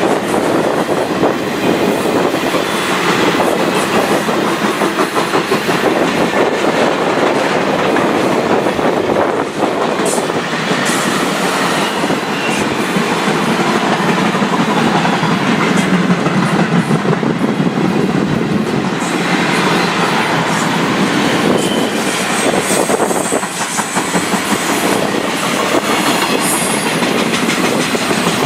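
Long train of railroad cars rolling past at speed: a steady rumble of steel wheels on rail with a continuous clickety-clack.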